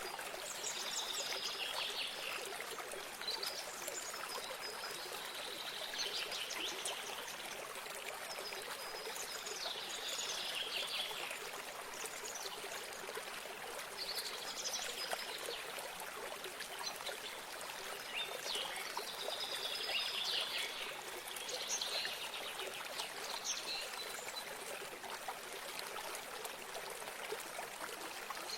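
Water running in a steady stream, with a songbird singing short chirping phrases over it every few seconds.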